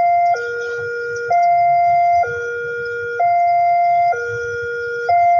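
Two-tone hi-lo siren, alternating evenly between a higher and a lower note, each held for about a second.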